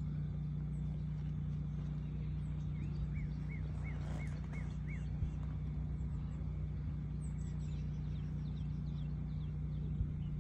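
Birds calling over a steady low hum: a run of six short rising-and-falling chirps, about three a second, a few seconds in, then a quick series of falling whistled notes in the second half.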